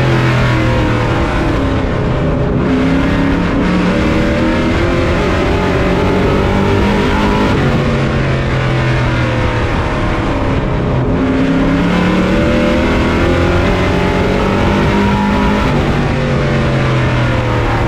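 Race truck engine heard from on board at racing speed. The revs drop twice as the driver lifts for a turn, once a couple of seconds in and again about eleven seconds in, and climb again on the throttle down each straight, over steady wind and road noise.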